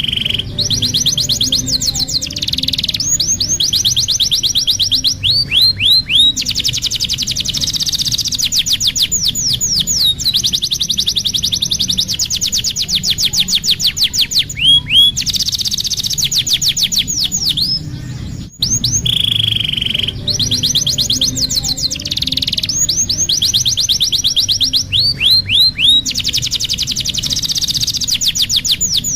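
Domestic canary singing a continuous high song of rapid rolling trills, runs of falling whistled notes and a held note, played as a tutor song for young canaries learning to sing. The song breaks off briefly about two-thirds through and the same sequence starts again, over a steady low hum.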